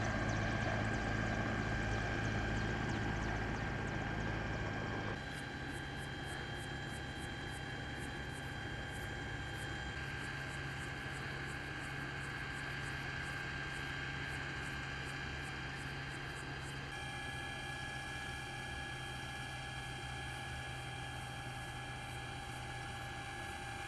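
Steady drone of a helicopter, with an even hum. The drone drops in level about five seconds in and shifts again later on.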